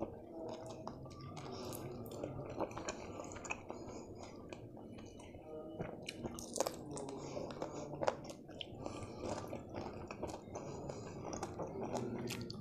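Close-miked chewing of fried chicken: wet mouth smacks and quick clicks as the meat is bitten and chewed, with a couple of sharper snaps about six and a half and eight seconds in.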